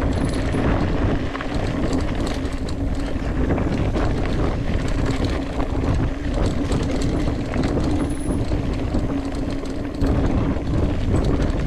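Mountain bike rolling along a trail: continuous tyre and rattle noise with many small clicks, over a steady hum.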